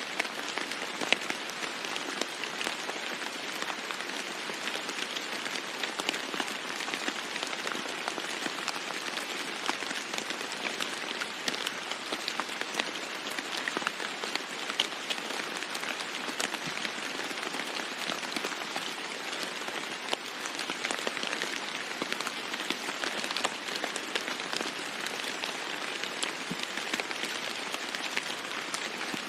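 Steady rain falling on a roof, an even rush with many individual drops ticking sharply through it.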